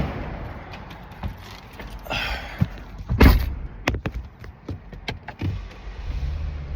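Scattered clicks and knocks around a truck, with one heavier thud a little after three seconds in, as of a vehicle door shutting.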